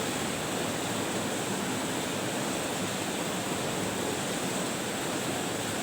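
Steady, even hiss of background noise with no other distinct sounds.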